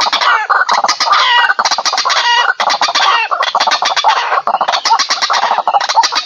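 White-breasted waterhens (ruak-ruak) calling loudly and without pause: a dense run of harsh, quickly repeated notes, many of them sliding down in pitch.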